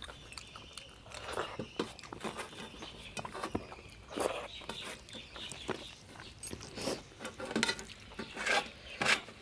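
Close-miked eating sounds: chewing and wet mouth smacks of someone eating a rice-and-curry meal, in irregular short bursts, with a few sharper clicks near the end.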